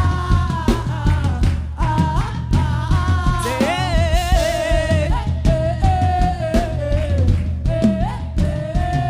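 Live worship music: a band with drum kit and bass keeps a steady beat while a voice sings long held notes, one with a wide vibrato near the middle.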